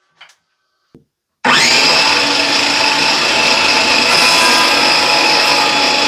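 Power saw cutting through wood. It starts abruptly about a second and a half in and runs steadily and loudly, with a sustained motor whine.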